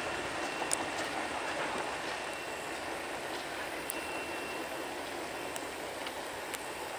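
The tail end of a loaded freight train of military equipment rolling away on the rails: a steady sound of wheels on track that slowly fades as the train recedes, with a few faint clicks.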